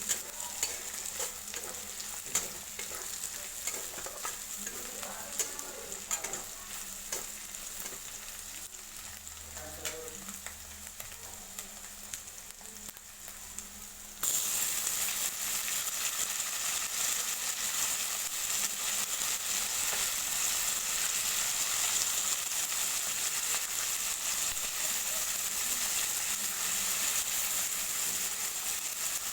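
Food frying in a pan, with the clicks and scrapes of stirring. About halfway through it jumps abruptly to a louder, steady sizzling hiss.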